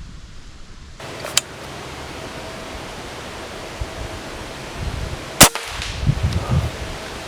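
A single sharp gunshot about five and a half seconds in: the shot that takes a squirrel. A fainter click comes about a second and a half in, and wind buffets the microphone with low rumbles throughout.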